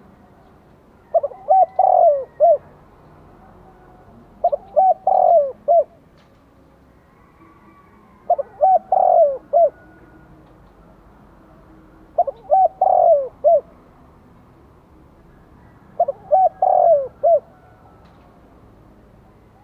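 Spotted dove cooing: five call phrases about every four seconds, each a few short coos running into a longer final note. It is the cu gáy decoy's call used to draw in wild males.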